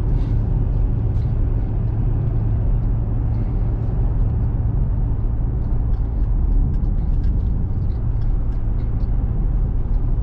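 Steady engine and tyre drone inside a small truck's cab while driving, a low hum with faint scattered ticks.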